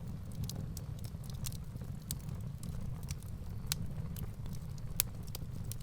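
Wood fire burning in a fireplace: irregular sharp crackles and pops of burning firewood over a steady low rumble of the flames, with one louder pop about five seconds in.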